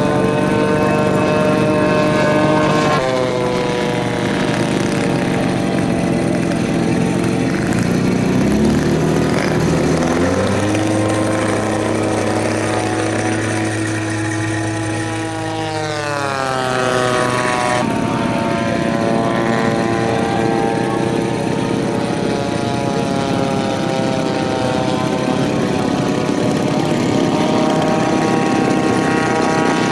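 Propeller engines of giant-scale radio-controlled model airplanes flying overhead, with several engine notes at once; the pitch drops about sixteen seconds in as a model passes.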